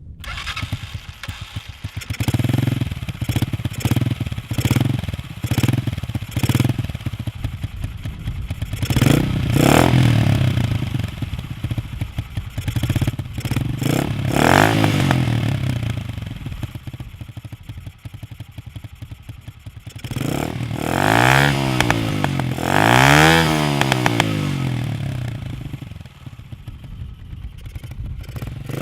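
A 200cc motorcycle engine with a stubby sport exhaust fires up and is blipped in a quick series of short revs. It then rises into a few longer revs, and after about twenty seconds the pitch sweeps up and back down twice.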